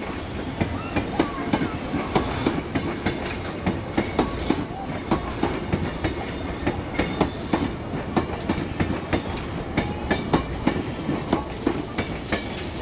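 Electric commuter train running past, its wheels clacking over the track in a rapid, uneven clickety-clack over a steady rumble.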